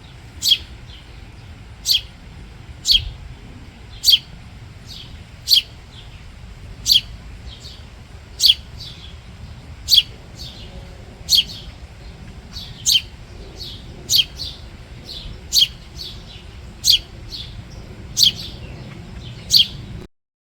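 Fledgling house sparrow calling: a single sharp, down-slurred chirp repeated steadily about every one and a half seconds, some fifteen times, with fainter chirps in between.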